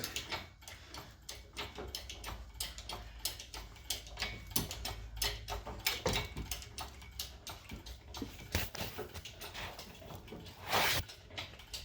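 Irregular clicks and light metallic knocks from the hoisting gear and the engine as the Prius engine is lifted out of the bay, over a low hum. There is a short, louder rush of noise near the end.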